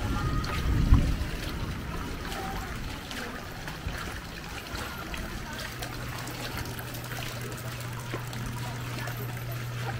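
Heavy rain falling and water trickling and running, a dense even patter of drops. There is a louder low rumble in the first second, and a steady low hum comes in a little past halfway.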